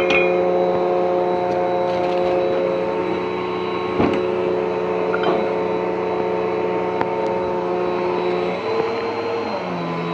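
Bissell PowerForce Helix upright vacuum cleaner running steadily, a motor hum and whine over the rush of air, with a couple of short clicks in the middle. Near the end its pitch shifts lower.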